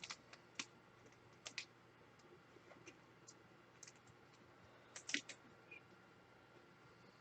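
Faint, scattered light clicks and taps, a few near the start and a cluster about five seconds in, from trading cards and their plastic holders being handled.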